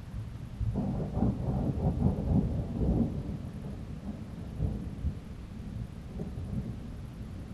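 A peal of thunder rolls in during a thunderstorm, building to a loud rumble about a second in. It fades away over the next few seconds into a low grumble.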